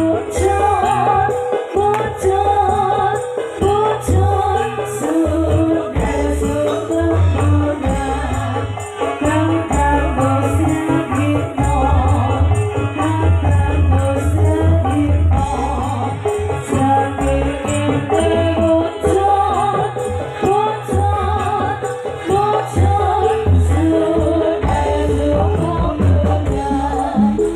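Loud live Javanese reog accompaniment music for a Singo Kubro dance: a steady drum-led beat with jingling, shaking percussion and a melody line playing on without a break.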